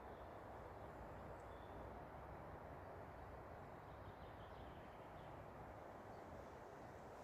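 Very quiet forest ambience: a steady faint hiss with a few faint, distant bird chirps.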